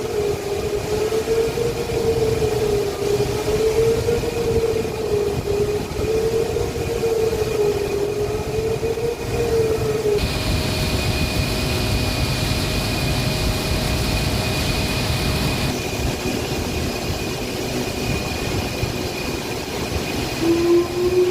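Heavy machinery running: a steady rumble under a whine that slowly wavers up and down in pitch. About halfway the wavering whine drops away and a hiss comes in for several seconds over a steady high tone, and near the end a new whine starts rising.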